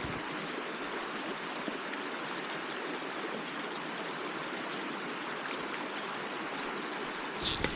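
Mountain stream rushing steadily, with a short, louder noisy burst near the end.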